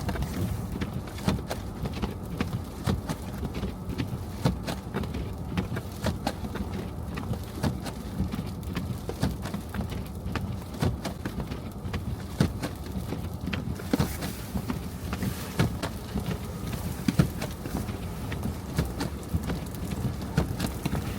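Car driving over a snow-covered street: a steady low road rumble with many irregular clicks and knocks.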